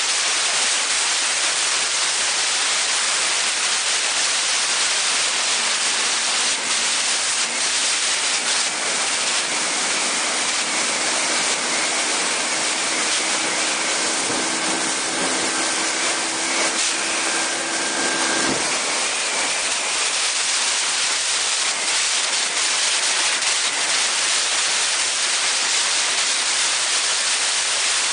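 Strong, steady wind noise buffeting an Insta360 One X camera's microphone, a loud even hiss. About a third of the way in, a low steady hum with a higher whistling tone rises out of it and cuts off suddenly about two-thirds of the way through.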